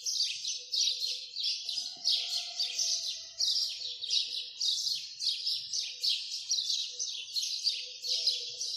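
Small birds chirping continuously, many high, quick falling chirps overlapping several times a second, as from a flock.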